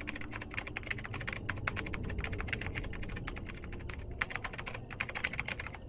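Fast, continuous computer-keyboard typing clicks, a typing sound effect with a few brief pauses, stopping abruptly at the end, over a low steady rumble.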